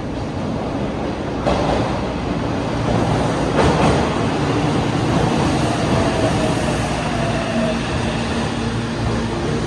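Meitetsu 300 series commuter train pulling into an underground station, with a steady rumble of wheels on rail. A whine falls slowly in pitch as the train slows, about two-thirds of the way in.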